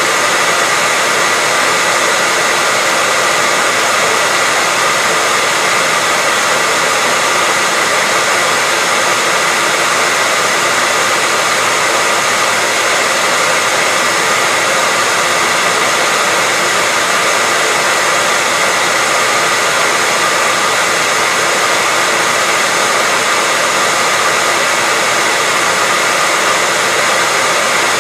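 Electric hair dryer running continuously at a constant setting: a steady rushing blow of air with a faint whine from its fan motor, never changing.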